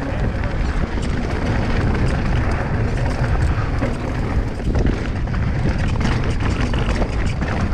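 Mountain bike descending a rough, rocky trail at speed: wind rumbling on the microphone over tyres rolling across rock, with a steady run of small knocks and rattles from the bike.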